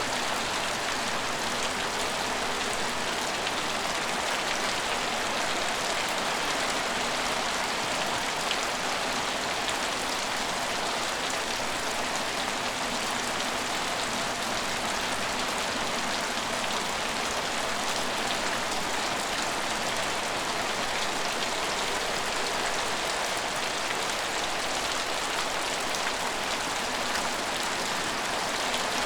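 Steady rain falling on an empty station, a dense even hiss of drops hitting hard surfaces with faint individual patters.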